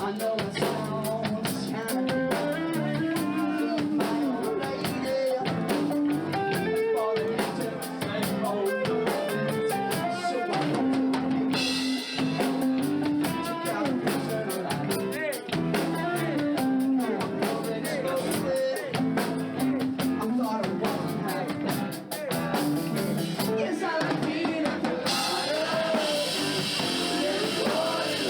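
Live rock band playing: drum kit with guitar and bass under a moving melodic lead line. The cymbals come in brighter about halfway through, drop out briefly near the end, then return.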